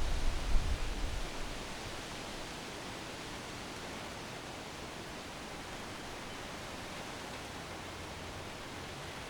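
Wind in backyard trees: a steady, even rustling hiss. In the first second or so a gust buffets the microphone with a low rumble that dies away.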